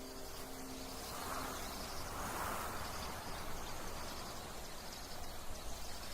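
Tropical forest ambience: a steady rushing hiss that swells and fades around two seconds in, with faint insect sounds.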